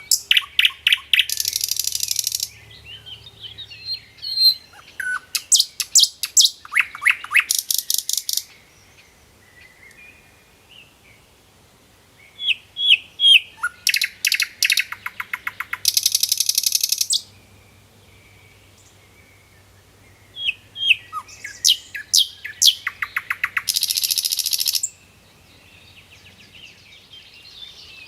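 A songbird singing in repeated phrases, four times: each phrase is a quick run of sharp chirps and rapid notes ending in a long buzzy trill, with a few seconds of quieter pause between phrases.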